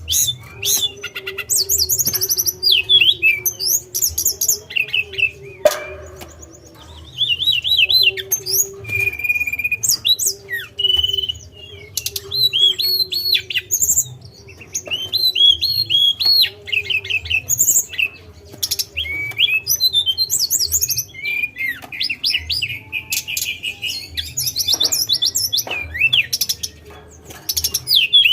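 A tledekan, a small Indonesian flycatcher, singing in quick bursts of high chirps, short whistles and rapid trills, with brief pauses between phrases. A faint steady low hum runs underneath.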